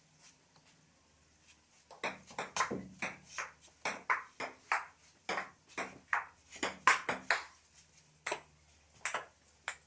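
Table tennis rally: the celluloid-type ball clicking off the bats and bouncing on the table. After about two quiet seconds it comes as a run of sharp, irregular clicks, about two to three a second, which space out near the end as the point finishes.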